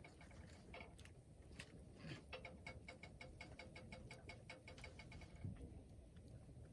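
Wood campfire crackling faintly, with scattered sharp pops. For about three seconds in the middle it gives a quick, even run of small ticking pops.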